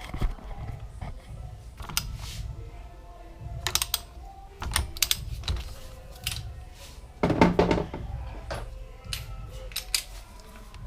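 Irregular metallic clicks and clanks of a hand torque wrench and socket working on a scooter's CVT clutch nut while loosening it, with a louder clatter about seven seconds in.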